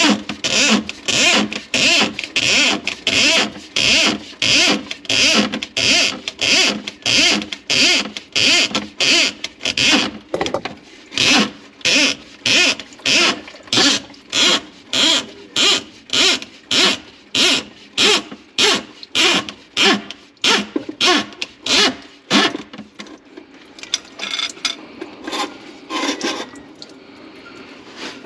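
A sink plunger pumped hard over a clogged kitchen drain, squelching in a steady rhythm of about two strokes a second. The strokes stop about 22 seconds in, leaving fainter, irregular sounds.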